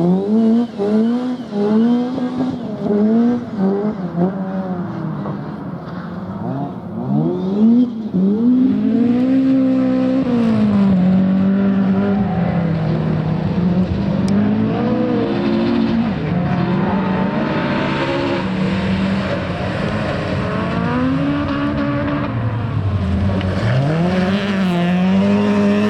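Rally car engine under hard driving: the revs climb and drop in quick succession over the first few seconds, then hold high with slower rises and falls in pitch as the car accelerates, brakes and turns.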